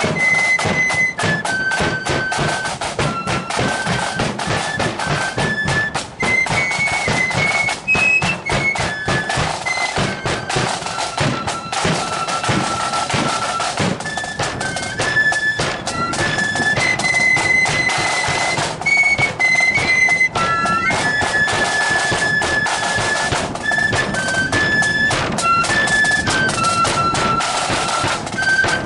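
Marching flute band playing a tune in unison on flutes, with drums striking a steady march beat underneath.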